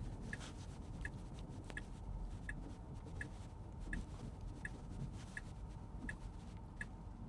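Tesla Model 3 turn-signal indicator ticking steadily, about three ticks every two seconds, over the low hum of the car's cabin as it drives slowly.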